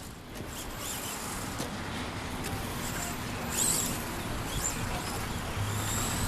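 Electric 2WD stadium RC trucks racing, their motors giving high-pitched whines that rise and fall as they speed up and slow down, over a steady background hiss.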